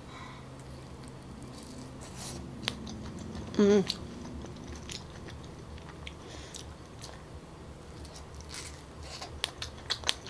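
Close mouth sounds of a person eating soft, sticky Musang King durian flesh: quiet wet chewing and smacking clicks. A short hummed vocal sound comes about three and a half seconds in, and there is a cluster of sharper smacks near the end.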